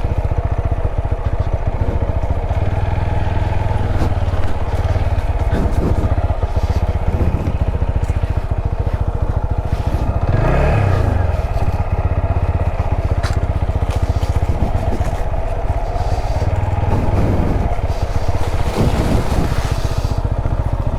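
Single-cylinder motorcycle engine running at low speed, its pitch briefly rising and falling with the throttle a few times, most clearly about halfway through.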